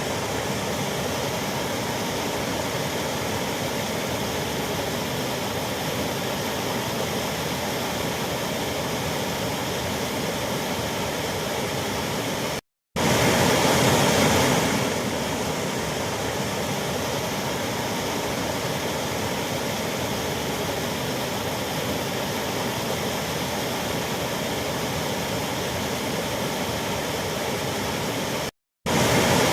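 Waterfall rushing: a steady, even roar of falling water. It cuts out twice for a split second, and each time comes back a little louder for a couple of seconds before settling.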